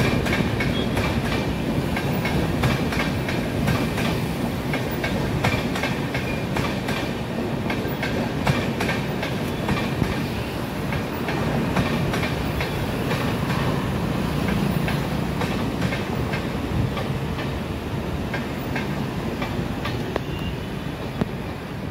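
Tejas Express passenger coaches rolling past, their wheels clattering over rail joints in a steady clickety-clack above a continuous low rumble. The sound eases slightly near the end as the last coaches approach.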